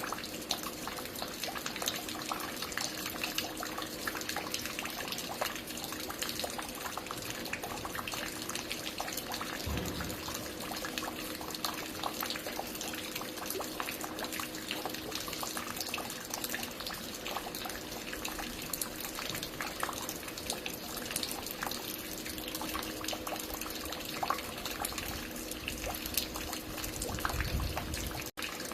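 Water falling and dripping steadily, a dense patter of many small splashes, over a faint steady hum. A brief low thud comes about ten seconds in, and a low rumble near the end.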